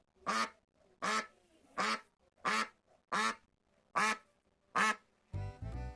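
Duck quacking, a steady series of about seven short, evenly spaced quacks, roughly three every two seconds. Music comes in near the end.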